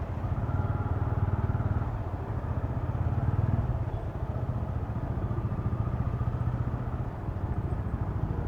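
TVS Ronin's single-cylinder engine running at low speed in city traffic, heard from a helmet-mounted mic. It is steady with a fast low pulse and swells slightly about three and a half seconds in.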